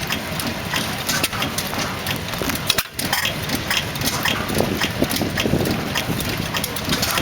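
4 HP McVicker tank-cooled hit-and-miss engine running, with sharp clicks several times a second over a steady mechanical noise.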